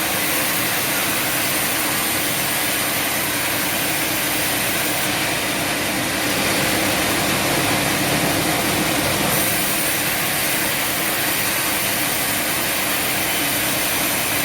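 Sawmill machinery running steadily: an even mechanical hum and hiss with no breaks or changes in load.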